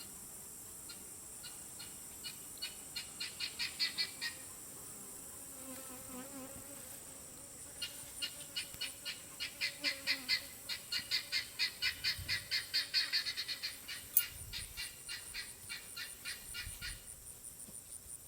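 A bird calling in rapid series of short, repeated notes, the first series quickening and growing louder, then a longer second series, over a steady high insect buzz.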